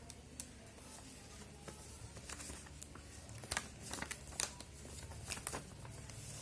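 A sheet of paper handled and creased by hand while folding a paper airplane: a run of short, crisp rustles and snaps, coming thicker in the second half.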